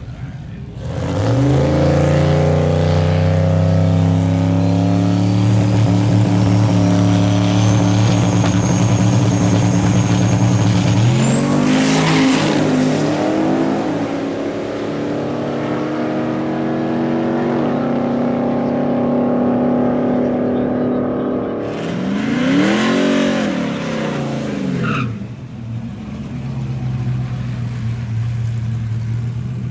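High-performance car engines running loud and steady, with a thin high whine that climbs slowly in pitch over the first several seconds. An engine is revved up and let back down twice, near the middle and again about three quarters through.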